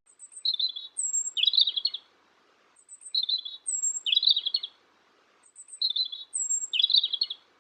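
Robin song: the same short phrase of thin high notes and a quick chirping trill, heard three times with short pauses between.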